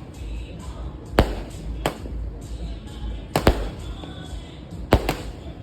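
Fireworks from a home-made pre-set display going off: sharp bangs about every one and a half seconds, several in quick pairs.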